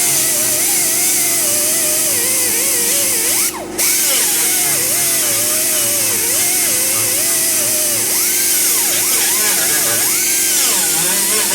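Power tool working on metal, its whine wavering up and down as the load changes; it drops out briefly about three and a half seconds in.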